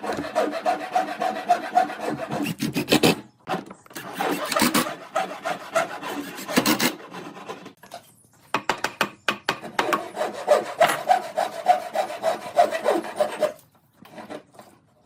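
Wood being worked by hand with a rasping tool, in repeated quick strokes. The strokes come in several runs separated by short pauses.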